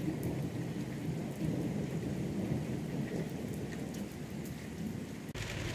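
Heavy rain falling steadily on pavement and parked cars, with a low rumble of thunder underneath. It cuts off abruptly near the end.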